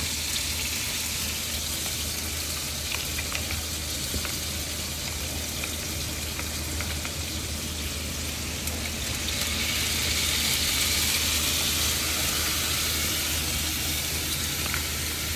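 Food frying in hot oil in a pan: a steady sizzle with scattered small pops, growing louder about ten seconds in.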